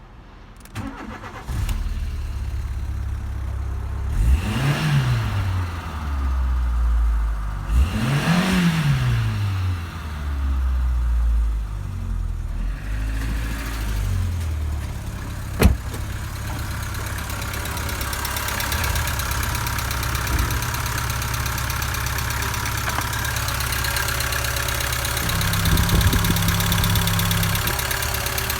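VW Golf 3's 1.4-litre ABD four-cylinder petrol engine starting up about a second in and settling to idle, revved up and back down twice early on, then idling steadily. A single sharp click sounds about halfway through.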